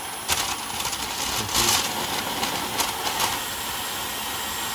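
Dyson Supersonic HD03 hair dryer running, a steady rush of air with a faint high whine from its motor. Several brief louder gusts of air noise come through, the loudest about one and a half seconds in.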